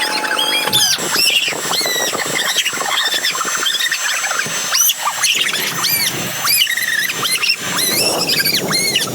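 Giant latex balloon squeaking over and over as its rubber is rubbed and stretched, in quick high-pitched chirps that rise and fall.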